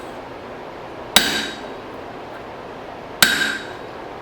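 Hand hammer striking a punch to drive a hole through hot file steel on the anvil: two ringing blows about two seconds apart, over a steady background rush.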